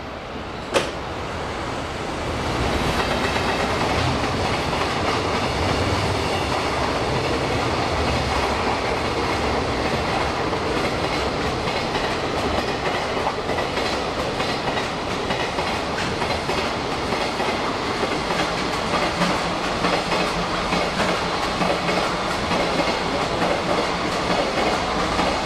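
Electric trains at a station platform: a sharp click just under a second in, then a steady clatter of steel wheels over rail joints from about two seconds in. Near the end a rising motor whine comes in as the JR West 223 series rapid train starts to pull out.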